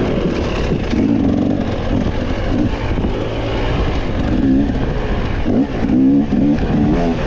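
Off-road race machine's engine, heard from the rider's camera while racing down a trail, revving up and easing off over and over as the throttle and gears change.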